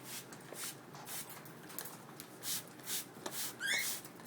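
A run of short hissing squirts from a hand-pumped spray bottle misting cockatiels, with one short rising cockatiel chirp near the end.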